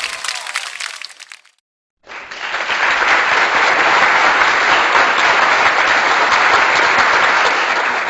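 Applause sound effect: a crowd clapping steadily, starting about two seconds in after a short silence, with the tail end of a previous crowd effect fading out before it.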